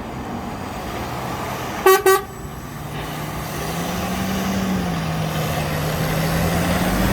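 Two short toots of a truck horn about two seconds in, over a truck engine running. The engine hum steps up in pitch about halfway through and grows steadily louder.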